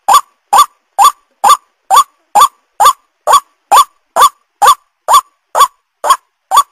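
White-breasted waterhen (ruak-ruak) calling: a steady run of short, loud notes, about two a second, each rising in pitch, as used for a bird-luring call.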